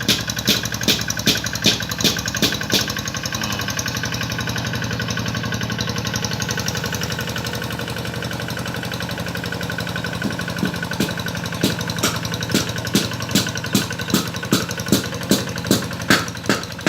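Paddy-ploughing tractor engine running steadily. A regular clanking comes about two to three times a second during the first few seconds and again from about eleven seconds in.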